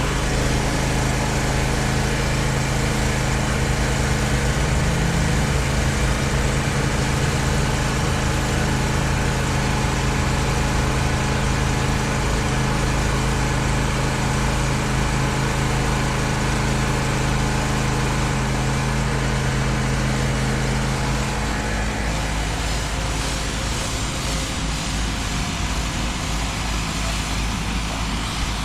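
An engine running steadily, with a low rumble and a steady hum; the hum stops about three-quarters of the way through while the rumble continues.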